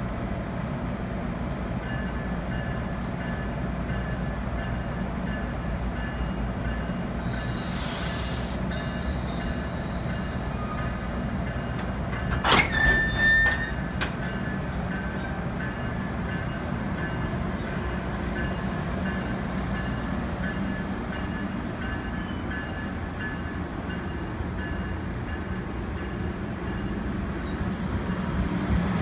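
GO Transit bilevel passenger train starting to pull out slowly: a steady low rumble, a short hiss about eight seconds in and a brief sharp screech near the middle, then thin, high, steady wheel squeal from about halfway on. The rumble grows louder near the end as the train picks up.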